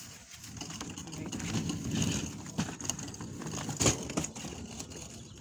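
Scuffing and handling noise as a boxed refrigerator is manoeuvred, with a sharp knock about four seconds in.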